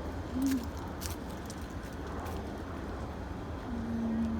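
Pickup truck idling with a steady low rumble, along with street traffic, while it waits to pull out. A couple of light clicks come about half a second and a second in, and a brief low tone about half a second in, then a longer steady one near the end.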